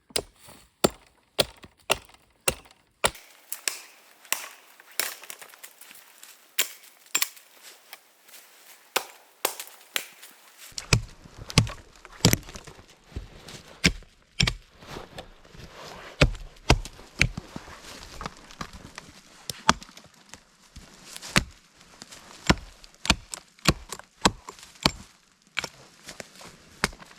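Wood being chopped with a blade: a long run of sharp, irregular knocks, about one to two a second.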